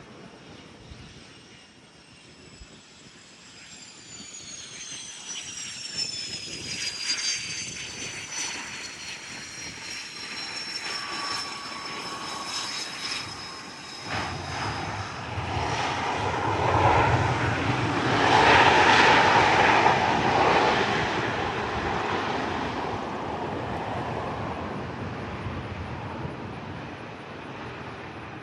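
A private jet passing: a high turbine whine slides down in pitch, then the engine noise builds to a loud peak about two-thirds of the way through and slowly fades away.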